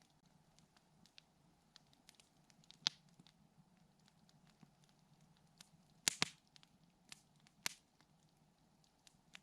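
Campfire wood crackling: a steady scatter of small sharp ticks, with a few louder pops about three, six and seven and a half seconds in.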